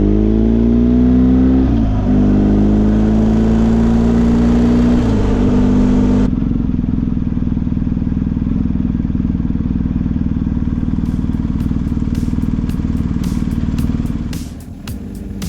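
Motorcycle engine accelerating through the gears, its pitch climbing and then dropping at each of two upshifts. After about six seconds the sound changes abruptly to a steady cruising engine drone with road noise. Near the end it fades, and a run of sharp clicks comes in.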